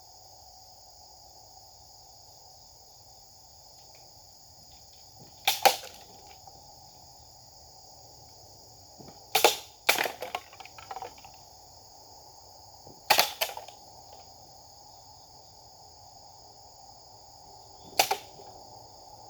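Japanese sword (katana) cuts striking a target: a handful of sharp cracks, some coming in quick pairs, spaced a few seconds apart. A steady chorus of insects goes on underneath.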